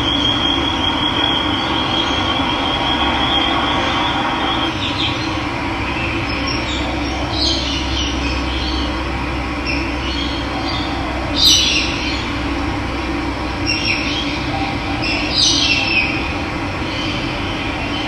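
Steady rush of running water, with birds chirping over it several times, loudest a little past the middle. A thin, high trilling note sounds for the first few seconds.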